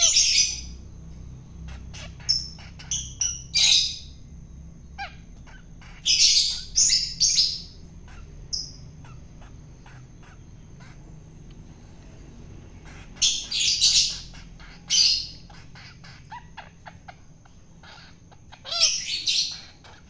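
Long-tailed shrike (cendet) giving harsh, rasping calls in short clusters, with pauses of several seconds between them.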